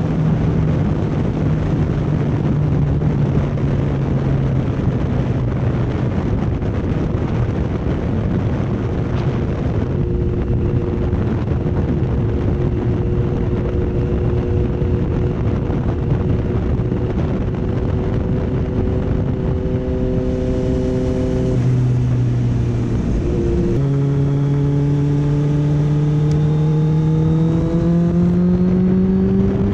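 Motorcycle riding at speed with heavy wind noise over the microphone. The engine note holds fairly steady, changes briefly about two-thirds of the way through, then rises steadily as the bike accelerates.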